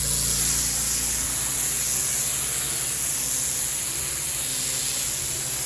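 Pressure washer spraying water onto a driveway: a steady hissing spray over the low hum of the machine.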